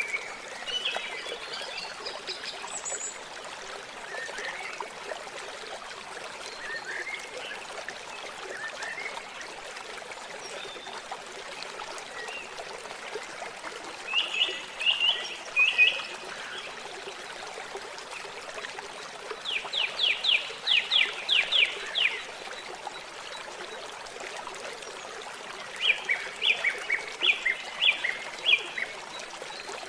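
Steady flowing, trickling water with songbirds calling over it: short scattered calls, and three bursts of quick repeated notes, the clearest a fast run of about eight notes just past the middle.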